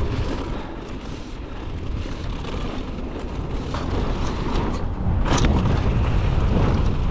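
Wind buffeting the microphone and mountain-bike tyres running over a dirt trail during a fast descent, growing louder from about five seconds in. A sharp knock sounds about five and a half seconds in.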